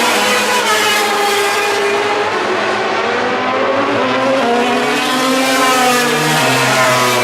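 Several racing motorcycles running at high revs, their engine notes rising and falling over one another as they accelerate and shift gears past the track.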